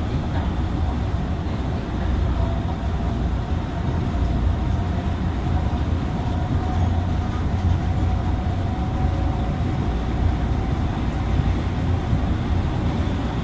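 MTR Tung Chung line CAF electric train running at speed, a steady deep rumble of wheels on track with a faint whine over it.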